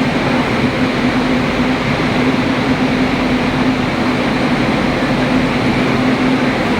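Train noise running steadily: a constant hum over an even rumble, with no knocks or changes.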